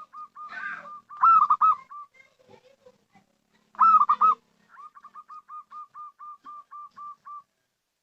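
Zebra dove cooing. Two loud bursts of rolling coos are followed by a run of short, even coos at about five a second that stops near the end.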